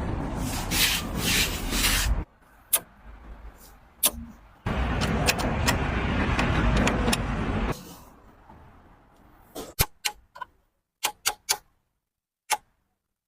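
Motorcycle noise in two stretches of a few seconds each, both cutting off suddenly, followed by a handful of scattered sharp clicks.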